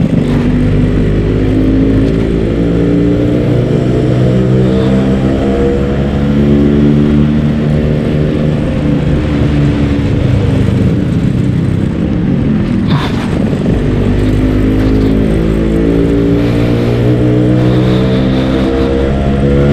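Yamaha RX-King's 135 cc two-stroke single-cylinder engine running under way, its exhaust note rising and falling with the throttle. Around two-thirds of the way through the pitch drops and then climbs again, as when the rider lets off and pulls away, with wind rumble on the microphone throughout.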